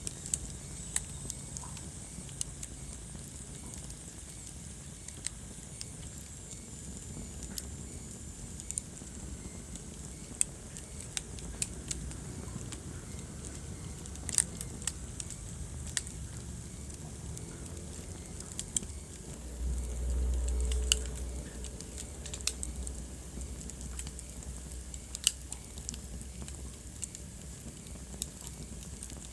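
Wood fire crackling in a fireplace, with irregular sharp pops and snaps over a soft hiss. A low rumble rises for a couple of seconds about two-thirds of the way through.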